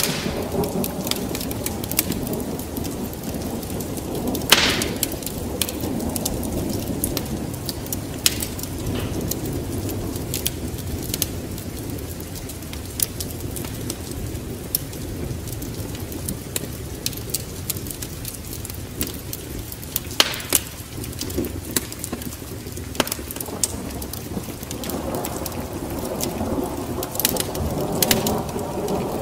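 Wood fire crackling with scattered sharp pops, two louder ones about four and twenty seconds in, over a steady low rumble of rain and thunder.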